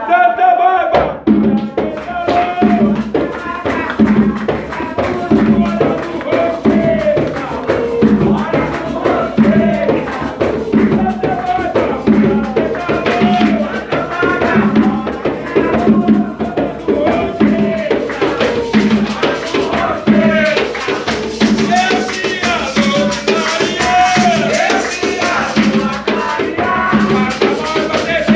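Voices singing a chant over a steady drum beat with shaker rattles.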